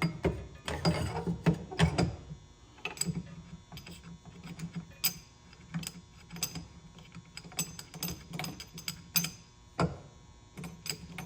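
Irregular metallic clicks and clacks of hand work on a chainsaw chain grinder while its grinding wheel is being changed.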